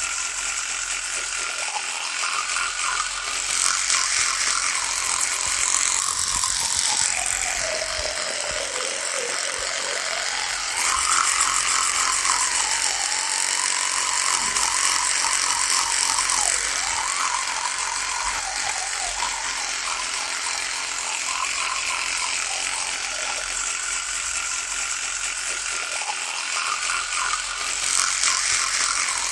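Electric toothbrush running with a continuous high buzz. Its pitch sinks slowly about three to nine seconds in, then jumps back up and wavers.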